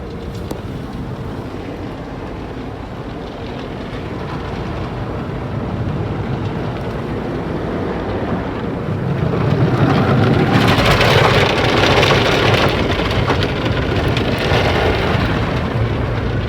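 MacNeil car wash tunnel running, heard from inside the car: a low machinery rumble, with water spraying and pattering onto the car body that builds to a loud hiss about nine seconds in and stays there for several seconds.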